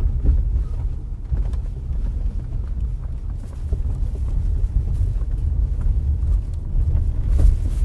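Road and tyre rumble heard inside the cabin of a 2018 Honda Accord 2.0T on a test drive, with small scattered clicks from the interior trim. The front-suspension noise caused by loose stones in the underbody shields is no longer heard.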